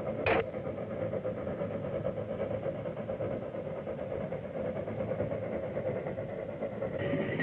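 Steady mechanical rumble of a moving vehicle on an old, narrow-band film soundtrack, with one short sharp crack about a third of a second in.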